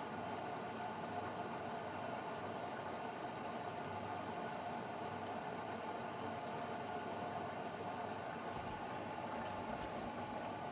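Grundig washing machine running its Refresh short programme: a steady, even running noise that does not change.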